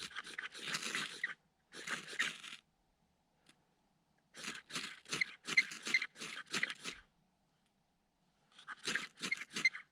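Ferro rod struck repeatedly with the spine of a knife to throw sparks onto fatwood shavings: quick rasping scrapes in four runs of several strokes each, with short silent pauses between runs.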